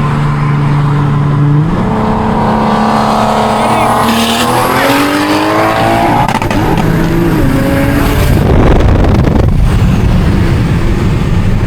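High-horsepower street car engine accelerating hard: a steady drone first, then the pitch climbs over several seconds as it pulls, giving way near the end to a loud, even rush of noise.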